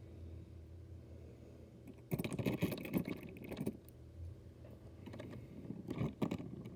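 Small clicks and rattles of diecast motorcycle models being handled and set down. They come in a busy cluster about two seconds in and again briefly near the end, over a low steady hum.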